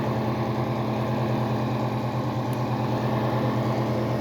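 LG 30-litre microwave oven running on a heating cycle: a steady, even mains-frequency hum of the transformer and magnetron with the fan.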